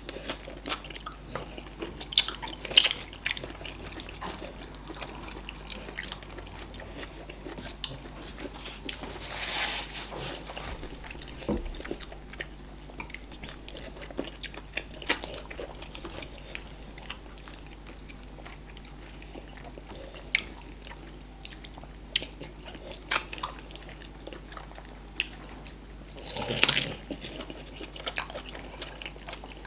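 Close-miked eating: chewing and biting of fufu, okra soup and meat, with scattered sharp mouth and utensil clicks and a few louder smacking or slurping bursts, one about ten seconds in and one near the end.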